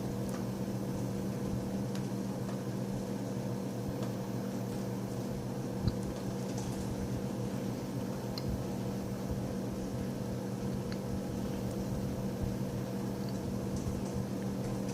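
Steady low electrical hum of room background, with a few faint soft clicks and one slightly louder tick about six seconds in.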